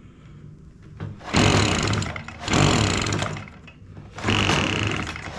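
Echo PB-265L's two-stroke engine being pull-started: three recoil-starter pulls about a second apart, each one cranking the engine over. It is not starting because the air filter is soaked in fuel, which the owner takes for the likely cause.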